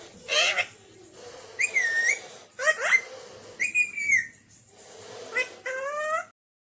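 Alexandrine parakeet giving a series of about six short whistled calls, several of them sliding down in pitch. The sound cuts off abruptly near the end.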